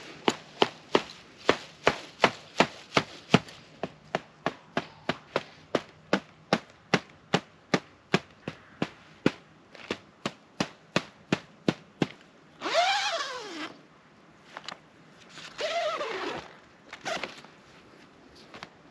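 A steady series of sharp knocks, about three a second, for some twelve seconds, then two short squeaking creaks that rise and fall in pitch.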